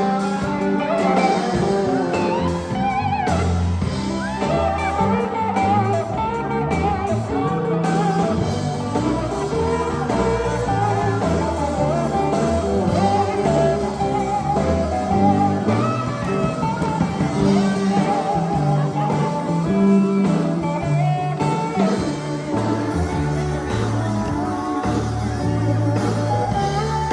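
Live sacred steel gospel band playing: a steel guitar sliding between sustained notes over bass and drums.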